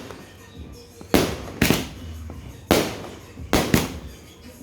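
Pegasus 'Rich Boss' 120-shot fireworks cake firing: five sharp bangs at uneven intervals, the last two close together.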